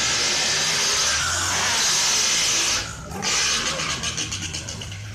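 Car engine held at high revs during a burnout, with a loud hiss of spinning tyres. The noise drops out briefly about three seconds in, then returns with the engine pulsing rapidly and evenly.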